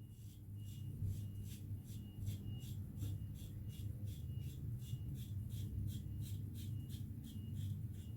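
Synthetic-knot shaving brush working up shaving-soap lather in quick, even strokes, about three to four a second, each stroke a soft scratchy swish with a faint squeak.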